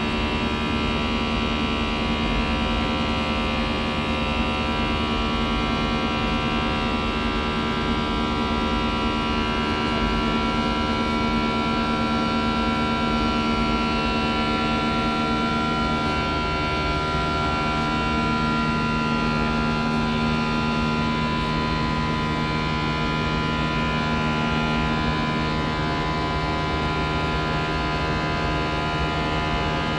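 Steady cabin drone of an Airbus A319 in flight: engine and airflow noise with a constant hum made of several steady tones. About halfway through, a low part of the hum shifts down in pitch.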